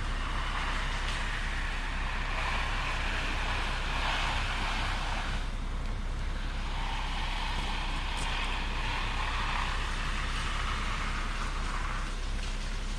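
Diesel engine of a compact earthmoving machine running steadily under work, its sound swelling and easing a few times.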